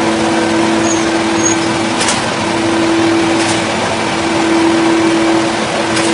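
Chainsaw running steadily at high speed while cutting through wood, its engine holding one even pitch over a rough cutting noise, with a few sharp clicks.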